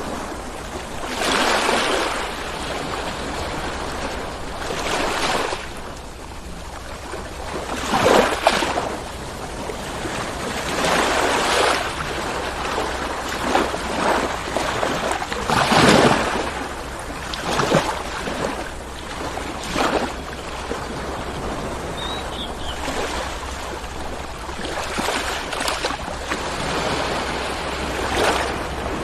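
Ocean waves rolling in and breaking, a steady wash of surf that swells every few seconds, with a dozen or so surges over the stretch and a low rumble beneath.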